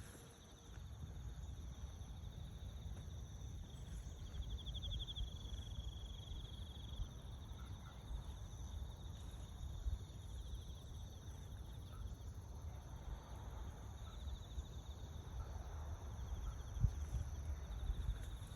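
Insects trilling steadily in a high, fast-pulsing drone, swelling for a few seconds near the start, over a low rumble.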